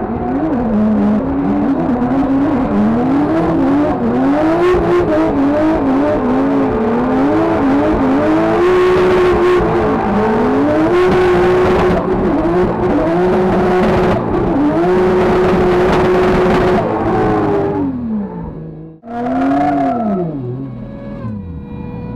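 Drift car engine heard from inside the cockpit, revving hard and swinging up and down in pitch as the driver works the throttle through a tandem drift, with stretches held steady at high revs, over a loud rush of tyre noise. Near the end the revs fall away, blip once more, and settle to a steady idle.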